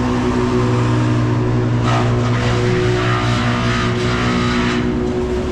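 An engine running steadily at a constant speed, with a rushing noise swelling over it around the middle.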